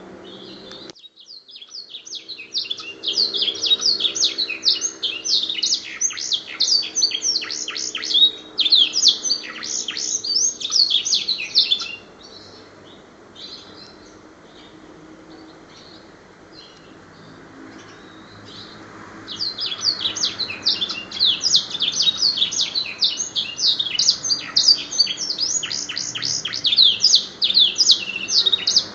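Domestic canary singing long bouts of rapid, high sweeping trills, tutored with black-throated canary (blackthroat) song phrases. The first bout starts about a second in and stops abruptly near the middle. The bird starts again after a pause of several seconds.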